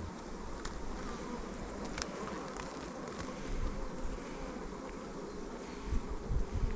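Honeybees buzzing steadily around an open hive under inspection, a calm, even hum. A few sharp clicks and some low bumps near the end.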